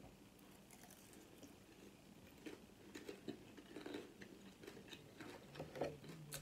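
Faint close-up chewing of crunchy fried chicken taquitos: small crunches and wet mouth clicks, starting about two seconds in after a near-silent pause.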